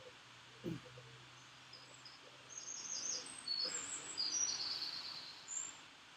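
Garden birdsong: a run of short, high chirps and trills in the second half. A brief low sound with falling pitch comes about half a second in.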